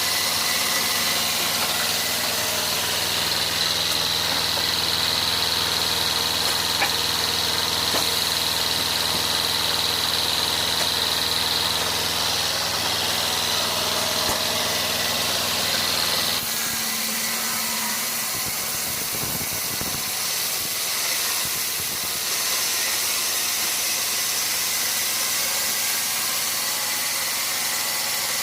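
Sawmill machinery running steadily with an engine-like hum and a high whine over it. About two-thirds of the way through the sound changes abruptly: the whine stops and the hum drops to a different, slightly quieter note.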